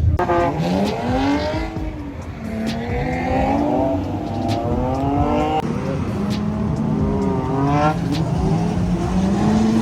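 Drift car engines revving hard, their pitch rising and falling again and again as the cars are driven around the course.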